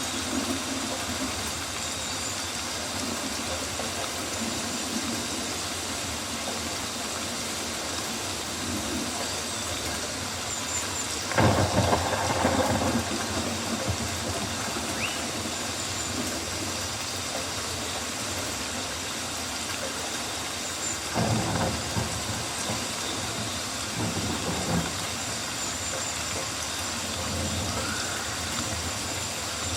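Rainforest rain ambience: a steady hiss of falling rain, with three short, louder and deeper surges about 11, 21 and 24 seconds in.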